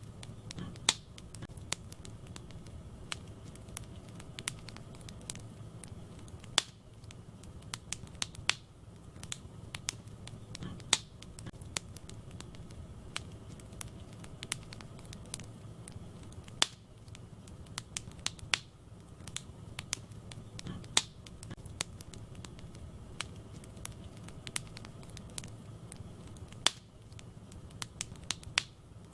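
Wood fire burning in a fireplace: irregular crackles and sharp pops from the burning logs over a steady low rush of the flames.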